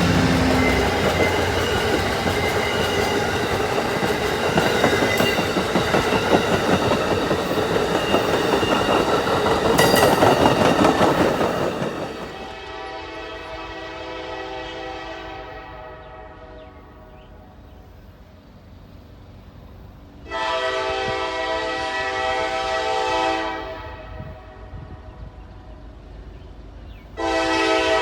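A train passing close by, its wheels on the rails making a loud steady rush that fades away over about twelve seconds. Then a locomotive horn sounds, one long blast of about three seconds and another starting near the end.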